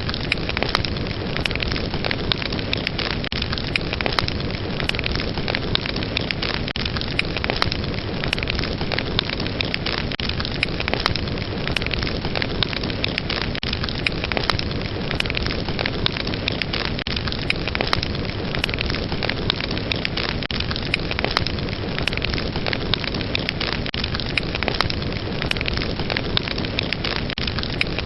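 Fireplace fire crackling: a steady hiss with frequent sharp pops and crackles throughout.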